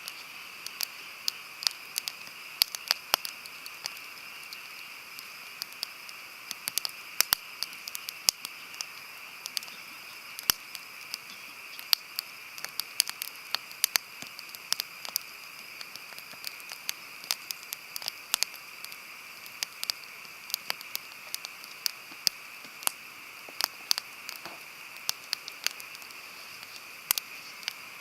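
Campfire of burning wood crackling, with irregular sharp pops and snaps of varying loudness over a steady high hiss.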